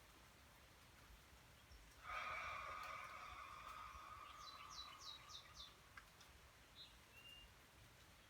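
A slow, soft exhale through the mouth begins about two seconds in and fades away over several seconds. A small bird gives a quick run of four falling chirps near the middle.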